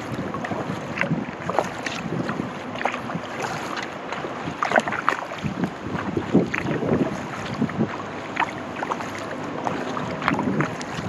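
Kayak paddle blades dipping and splashing in the water in irregular strokes, with drips and water lapping, over wind noise on the microphone.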